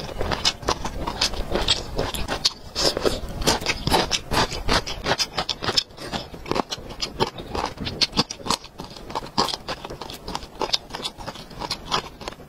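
Close-miked eating: a crisp piece of cucumber bitten and chewed, giving quick, irregular crunches and wet mouth clicks.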